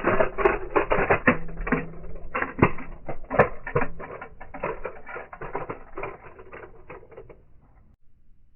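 Small metal diecast toy cars crashing and tumbling: a dense run of clattering clicks and knocks that thins out over several seconds and stops near the end.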